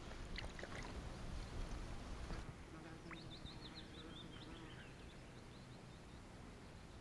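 Faint outdoor lakeside ambience with a low rumble for the first couple of seconds, then a bird calling a quick run of short high chirps about three seconds in.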